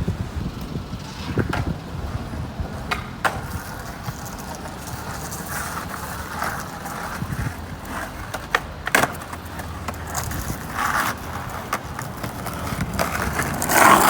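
Skateboard wheels rolling on pavement, a steady low rumble broken by several sharp clicks.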